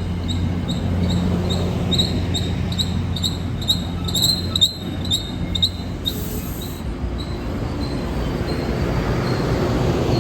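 An MBTA diesel commuter train with two locomotives runs with a steady low engine hum, while a bell dings about two to three times a second. There is a short hiss about six seconds in, and a high wheel squeal begins near the end.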